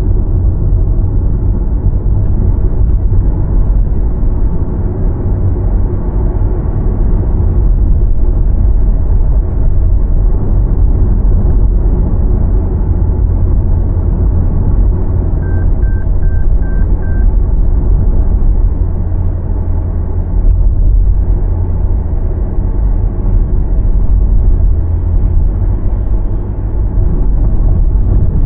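A car driving, with a steady low rumble of road and engine noise. About halfway through, five short electronic beeps sound in quick succession.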